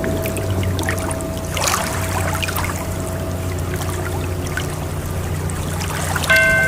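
Water trickling and splashing in small scattered spatters over a steady low ambient drone with a held tone above it. Near the end a new sustained tone of several pitches at once sets in suddenly and rings on.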